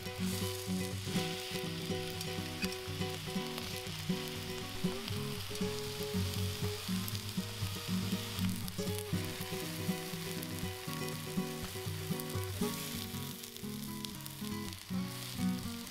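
Thick onion slices frying in olive oil in a nonstick frying pan, sizzling steadily, with light background music underneath.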